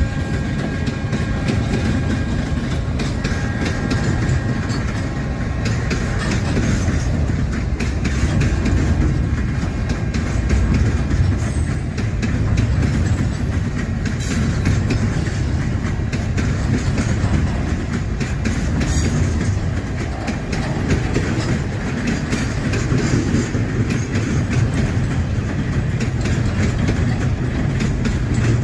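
Empty freight train rolling past, its wagons' wheels clicking and clacking over the rail joints over a steady rumble.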